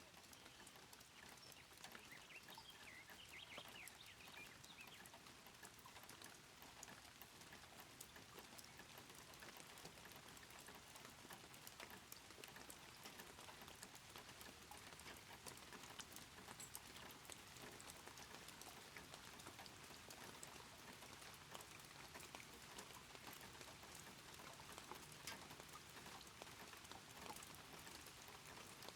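Near silence: faint ambience scattered with small ticks, with a few faint chirps a few seconds in.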